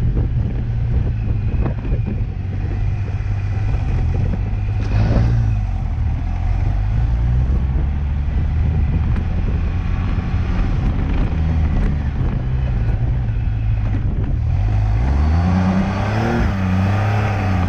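Car engine running under way with road and wind noise. In the last few seconds the revs rise and fall several times.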